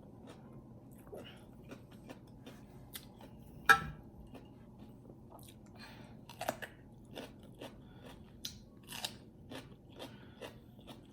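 A person chewing food close to the microphone, with scattered small crunches and wet mouth clicks, and one sharper crunch a little under four seconds in.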